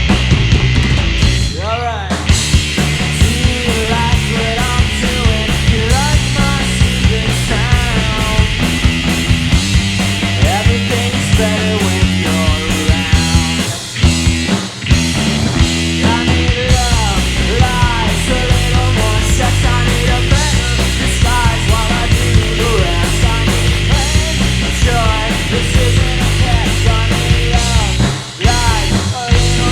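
Live rock trio of electric guitar, bass and drums playing a loud instrumental passage, with many notes bending in pitch. The band drops out briefly about 14 seconds in and again near the end.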